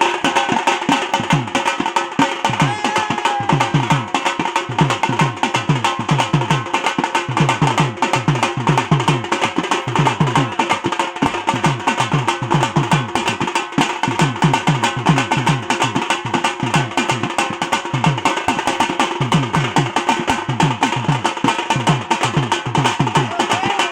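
Music with fast, steady drumming: rapid drum strokes throughout, with repeated runs of low drum notes.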